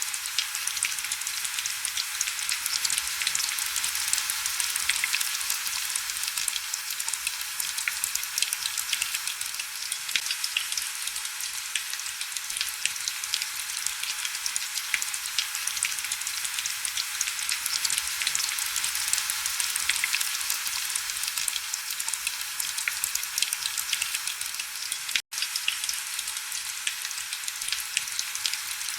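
Heavy rain falling on window glass: a steady dense hiss of fine drop ticks with hardly any low rumble. The sound cuts out for an instant about three-quarters of the way through.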